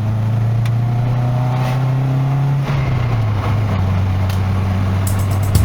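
Car engine running steadily, its revs easing down slightly about three seconds in.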